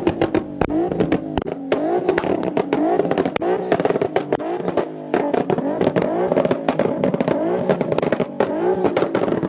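A car engine revved hard over and over, its pitch climbing in short repeated surges, with sharp crackles throughout.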